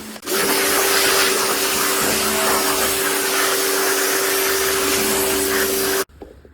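Water blaster (pressure washer) running and spraying: a steady motor hum under a loud hiss of the water jet, which cuts off suddenly near the end.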